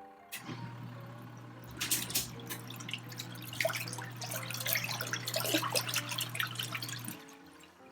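Della portable twin-tub washing machine running its wash cycle: a steady motor hum with water churning and splashing in the tub. It starts just after the beginning and cuts off about seven seconds in.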